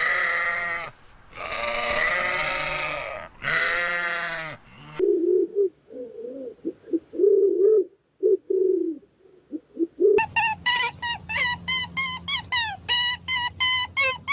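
Goat bleating three times in long calls. After that come a few seconds of short, low grunting calls, and then a fast run of high chirps, about five a second.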